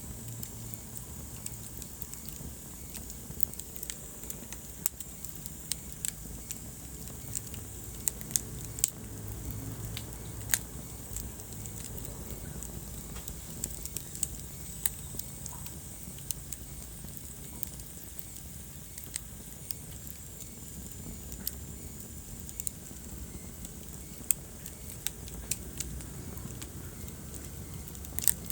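Wood fire crackling in a fireplace: irregular sharp pops and snaps, a few louder than the rest, over the low steady rumble of the flames.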